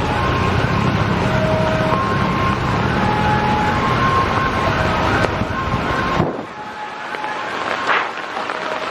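A train passing close by: a loud rumble of wheels on the rails with short squealing tones from the wheels. It cuts off abruptly about six seconds in, leaving quieter background noise.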